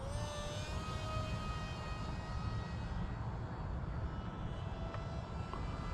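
Electric motors of a radio-controlled SU-35 model jet whining in flight: a steady whine of several tones, rising slightly at the start.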